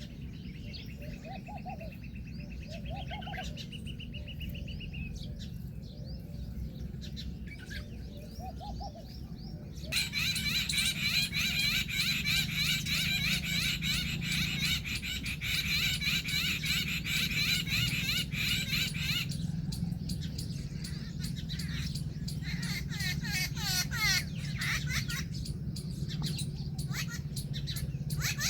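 Birds calling: a high trill over the first few seconds, then about ten seconds in a dense burst of overlapping chirps and chatter that lasts some nine seconds, followed by scattered shorter calls. A steady low hum runs underneath.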